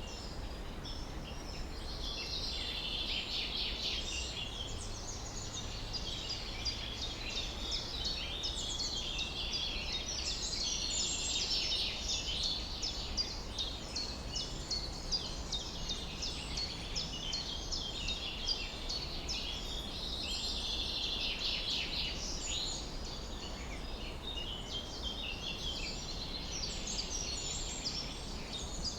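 Several birds singing at once: a dense chorus of quick chirps and trills, over a steady low background hum.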